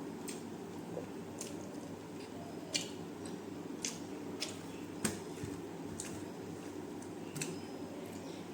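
A person chewing food close to the microphone: wet mouth sounds with short, sharp smacks and clicks about once a second, over a steady low hum.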